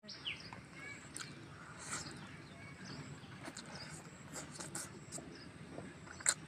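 Close-up eating sounds of a person chewing chicken curry and rice eaten by hand: scattered wet mouth clicks and smacks.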